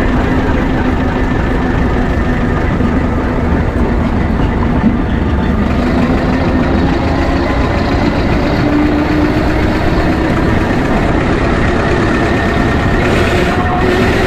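A 6-inch scale Foden C-type steam wagon under way, its double-high two-cylinder engine running steadily with a faint whine that rises slightly in pitch.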